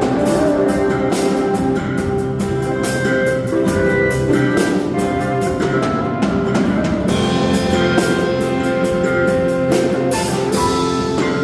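A worship band playing an instrumental passage: drum kit with cymbal strikes over guitar and sustained chords, with no singing.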